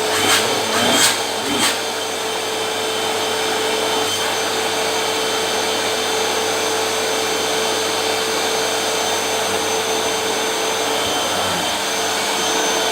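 Small electric vacuum cleaner running steadily at one pitch, freshly assembled and switched on for its first test. A few knocks from handling it come in the first couple of seconds.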